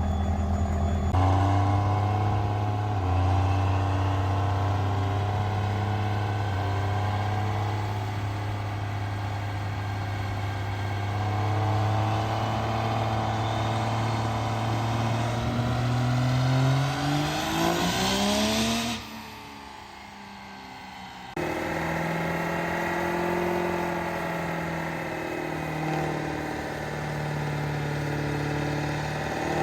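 Diesel truck engine running steadily, then revving up, its pitch rising over a few seconds past the middle before it drops away. After a brief quieter stretch the engine sound abruptly returns, running steadily again.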